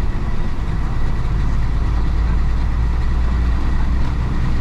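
Isuzu DA640 diesel engine of a 1966 Isuzu BXD30 bonnet bus running steadily, a deep low rumble heard inside the bus; its pitch settles lower about a second in.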